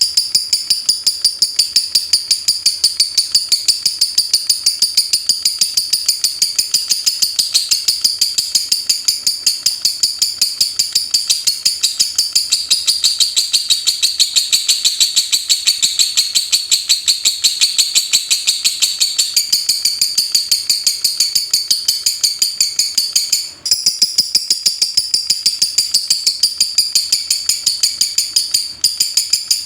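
Lovebird's rapid ticking call ('ngetik'): a fast, unbroken run of sharp, high chips, several a second. It breaks off briefly about two-thirds of the way through, then resumes.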